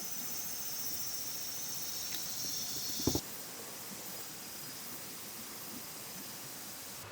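Insects trilling steadily over a constant hiss. About three seconds in the trilling stops abruptly with a short thump, leaving the hiss alone.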